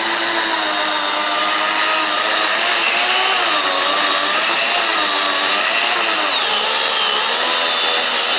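Interskol PTs-16/2000T electric chainsaw cutting through a thick willow log. Its motor whine dips and wavers in pitch from about three seconds in as the chain takes the load.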